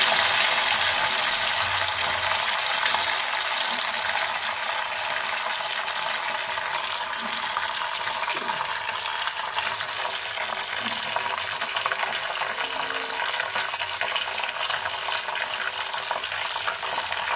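Curry leaves frying in hot oil in a kadhai: a steady sizzle, loudest at first and easing slowly.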